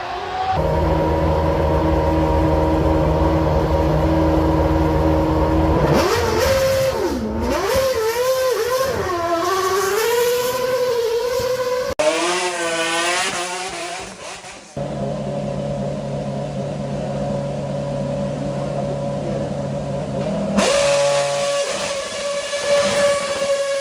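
High-performance car engines, one after another: an engine droning at steady revs, then revved up and down in repeated swings of pitch. The sound changes abruptly twice, to another car revving in quick swings and settling to a steady drone, then to a third steady engine note.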